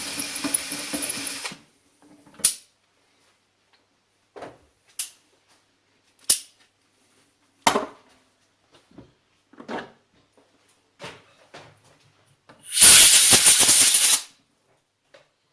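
A drill press motor runs and stops about a second and a half in. Scattered light clicks and knocks of tool handling follow. Near the end comes a loud rushing burst lasting about a second and a half.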